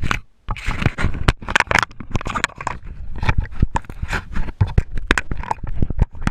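Loud, irregular scraping and rustling of something rubbing against the camera's microphone, in a dense run of sudden scratches and crackles.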